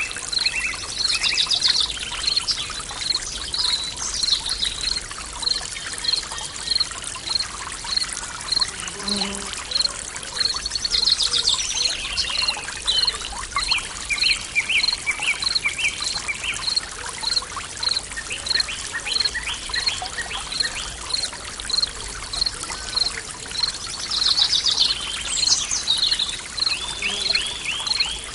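Forest soundscape: a stream running steadily, with birds singing in several bursts and trills. A high pip repeats about twice a second throughout, and a low steady tone of binaural beats lies underneath.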